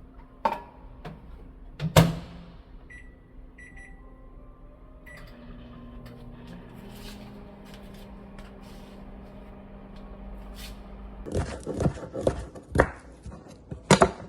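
A sharp clunk, then a few short high electronic beeps and a low steady appliance hum, ending in a run of loud clattering knocks.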